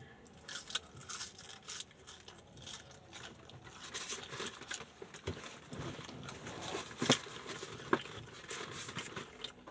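A person chewing French fries close to the microphone: soft, wet mouth sounds and faint crackling, with a few sharper clicks about five, seven and eight seconds in, and light rustling of paper food wrappers.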